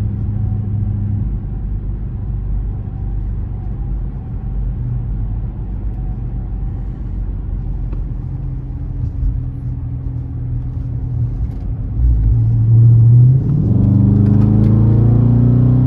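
Exhaust of a 2020 Dodge Charger R/T's 5.7-litre Hemi V8 with the mid mufflers deleted, cruising with a steady low drone. About twelve seconds in it gets louder, and near the end it rises in pitch as the car accelerates.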